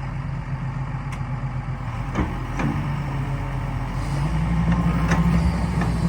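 Excavator's diesel engine running just after starting, its pitch stepping up about four seconds in as it revs, with a few clanks.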